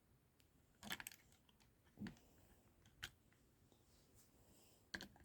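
Faint clicks and taps of plastic Lego pieces being handled as the roof is pushed onto a Lego car: a small cluster about a second in, single clicks at two and three seconds, and another near the end.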